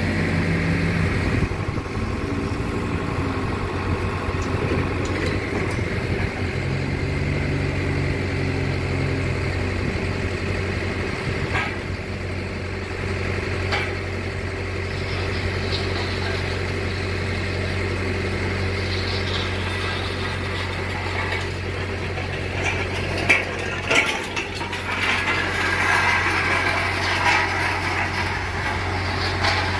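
An engine running steadily at idle, with a few sharp knocks a little past two-thirds of the way through.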